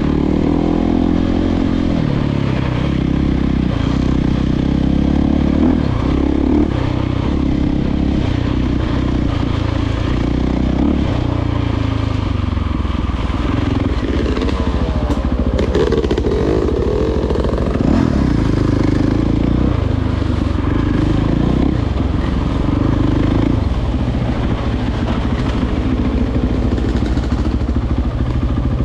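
Dirt bike engine running on a trail ride, its pitch rising and falling over and over with the throttle.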